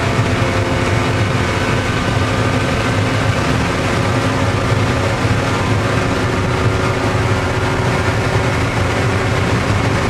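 Race car engine running steadily at speed, heard from inside the cockpit over loud wind and road noise.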